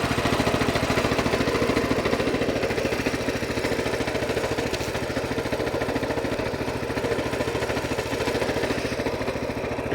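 Coleman BT200X mini bike's single-cylinder four-stroke engine running steadily, its exhaust pulses fast and even.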